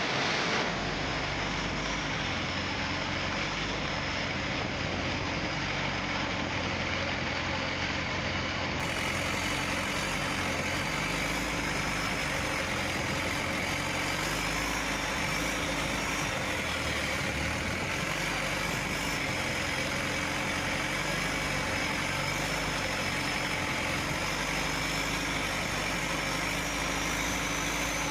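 Boat engine running steadily, a constant hum with a faint high whine over it.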